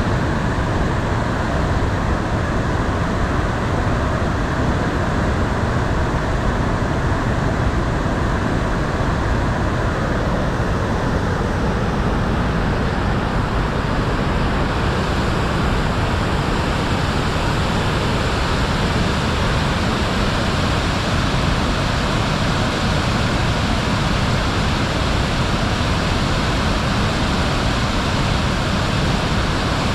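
Waterfall: a steady rush of falling water, growing a little hissier about halfway through.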